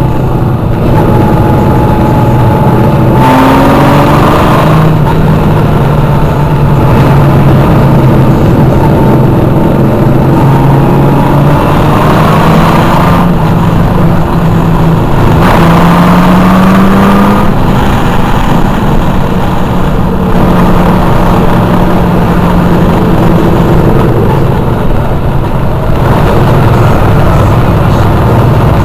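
Several motorcycle engines running loudly together, their pitches rising and falling a little as the bikes ride.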